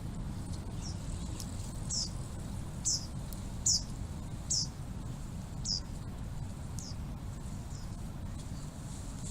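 A small bird calling over and over: about ten short, high notes that each fall in pitch, roughly one a second, loudest in the middle. Under it runs a steady low rumble.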